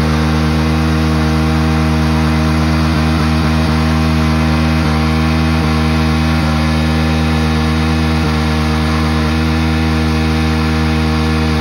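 Hero Splendor motorcycle's single-cylinder engine running at steady revs during a burnout on dirt. It is a constant, unchanging drone with a few slight dips in the middle.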